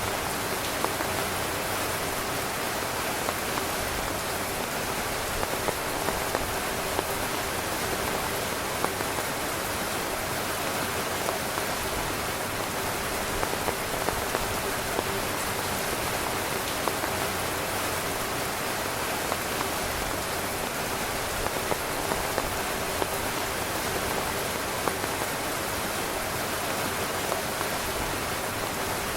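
Steady heavy rain falling on a tent, with scattered louder drop hits standing out from the constant patter.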